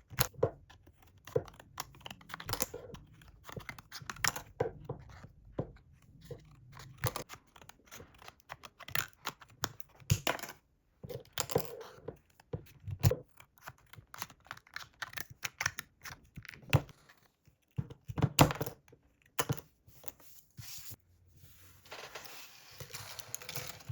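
Handling sounds: a run of short rustles, light knocks and clicks, with a tearing or crinkling sound, like paper or plastic being handled, near the end.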